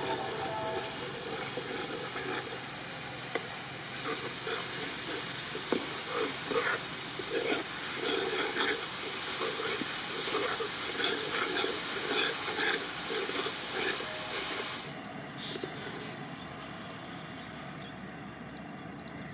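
Eggplant sizzling as it fries in hot oil, with repeated clinks and scrapes of a utensil stirring in the pan. The sizzle cuts off suddenly about fifteen seconds in.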